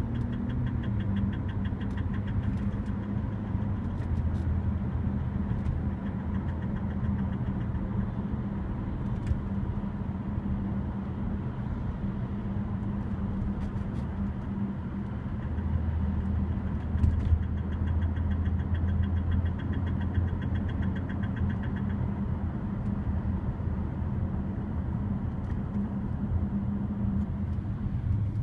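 A 2008 BMW X5 E70 3.0si, its inline-six running steadily, with scattered short knocks from the area of the rear left wheel, the fault the owner is recording.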